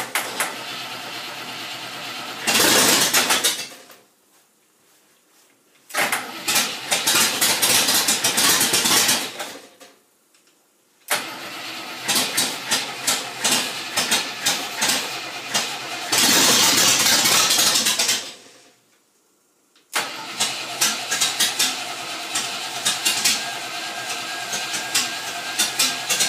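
Rover V8 engine cranked on its starter in four spells with short pauses between, two of them rising to a louder burst as it tries to catch: its first start attempt after sitting since 1992, on choke.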